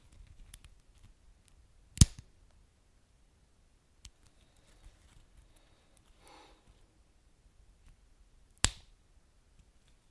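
Wood fire burning quietly with sparse faint crackles, and two sharp loud pops, about two seconds in and again some six and a half seconds later.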